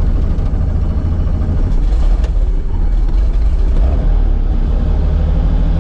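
Robinson R44 helicopter's six-cylinder Lycoming piston engine running steadily with a loud low rumble, just after catching on the starter, before the rotor clutch is engaged.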